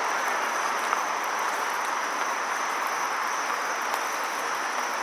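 Steady outdoor background hiss with a continuous high-pitched insect drone, typical of crickets.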